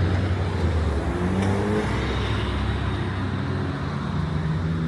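Car engine and exhaust running close by with a low drone, the pitch rising about a second in as the car accelerates away.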